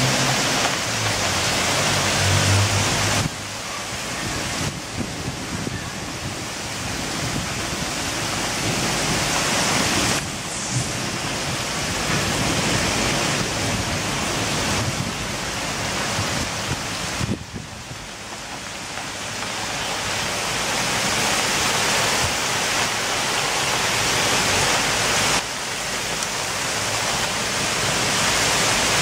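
A torrential rainstorm: the steady, loud hiss of a heavy downpour. It changes abruptly in level several times as the recording cuts between shots.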